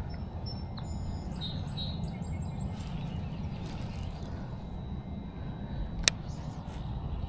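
Steady low outdoor rumble of wind and water with a bird's thin high chirps in the first few seconds, and one sharp click about six seconds in.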